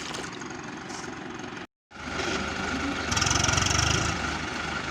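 Tractor diesel engine running, cut off completely for a moment a little under two seconds in, then louder for about a second from around three seconds in.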